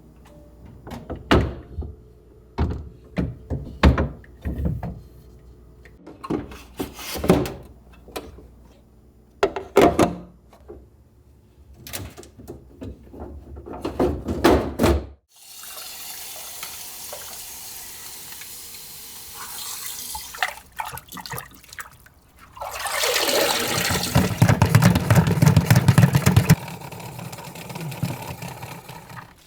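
Scattered knocks and clatter of items being handled, then a kitchen tap running into the sink. The flow grows much heavier for a few seconds near the end, then eases off.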